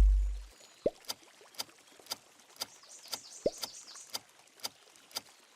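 Sharp taps at a steady pace of about two a second, with three short rising squeaks among them: the sound clip played for the Nike logo.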